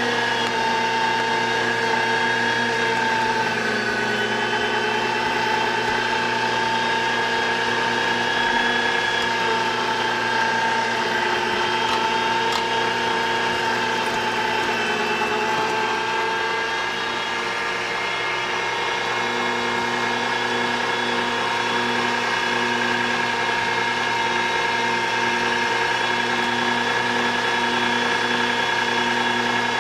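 Electric meat grinder's motor running steadily with a high whine, its pitch sagging slightly now and then.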